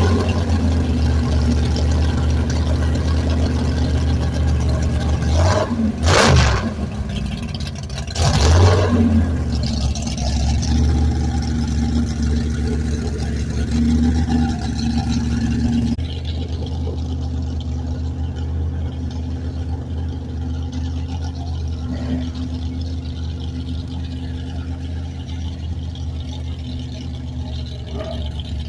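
A car engine running steadily, with two brief louder surges about six and eight and a half seconds in. It drops a little quieter about sixteen seconds in.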